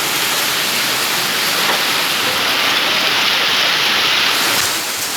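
Hailstorm: hail and heavy rain pelting down in a dense, steady rush of noise.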